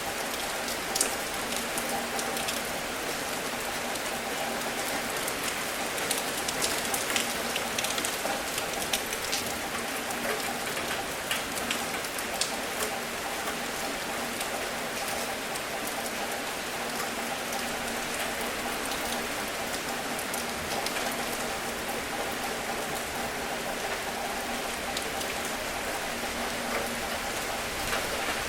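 Steady rain falling, an even hiss with scattered sharp drips striking a surface, the drips thicker during the first half.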